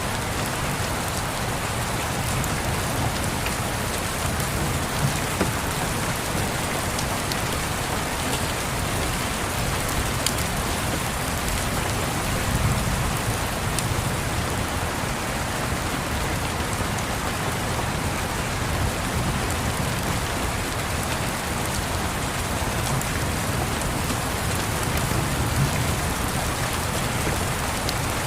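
Steady heavy rain pattering, with low rumbles of distant thunder swelling softly a few times and a few faint sharp crackles.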